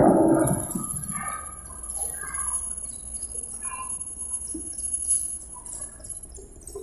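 Birds chirping in short scattered calls over a faint steady high whine. A loud rushing noise fades out within the first second.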